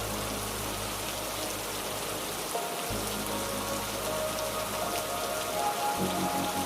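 Steady rain pattering on leaves, many small drops in a continuous hiss. Soft sustained music chords sit underneath, changing about two and a half seconds in and again near the end.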